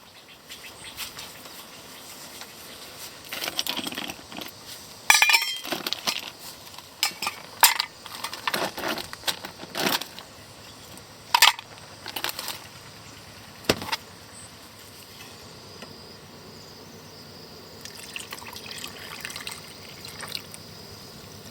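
Irregular clinks and sharp knocks of small hard objects being handled, several loud ones close together, then a quieter steady background with a little faint clatter.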